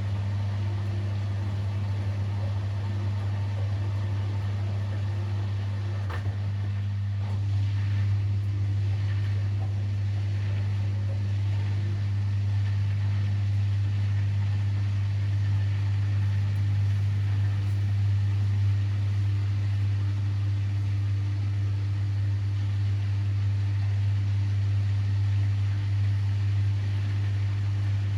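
Siemens Extraklasse XLS 140 A front-loading washing machine running its 90°C boil-wash programme, a steady low machine hum. There is a small click about six seconds in, after which it runs slightly louder.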